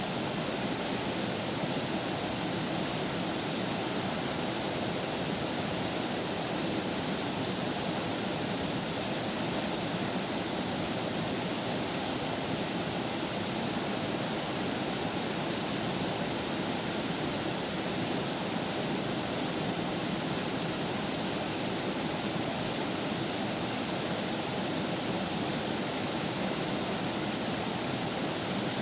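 Steady rushing of a flowing river, an even, unbroken noise of running water with no change throughout.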